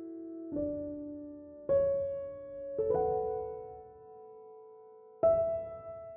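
Slow, calm piano music: single notes and soft chords struck about once a second and left to ring out and fade, with a longer pause before the last one.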